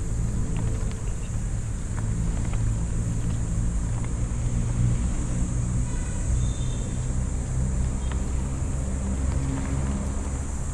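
A vehicle's engine running steadily, with a low hum that wavers slightly in pitch.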